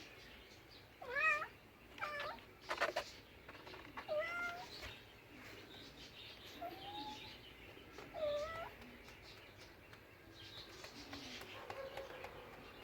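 A cat meowing: about six short meows with wavering pitch, the loudest about a second in.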